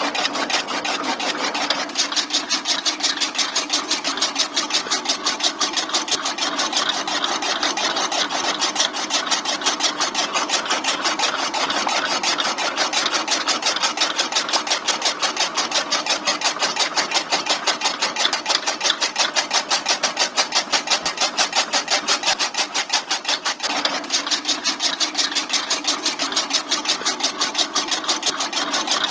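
Small electric motor driving a homemade mini chaff cutter, running steadily with a fast, even rattling rhythm over a steady hum.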